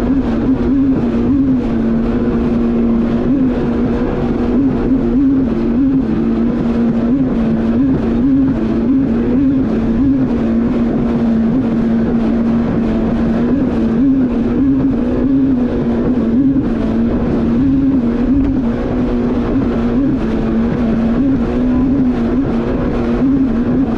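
Yamaha VX Cruiser H.O. WaveRunner's four-stroke engine running at steady high speed, its pitch briefly wobbling upward every second or two. Water and wind noise run under it.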